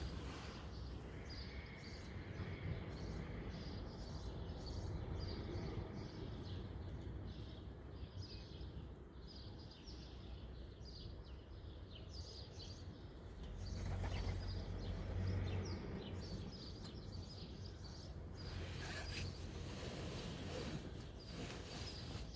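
Small birds chirping in quick, repeated short calls over a steady low background rumble, which swells for a couple of seconds about two thirds of the way through.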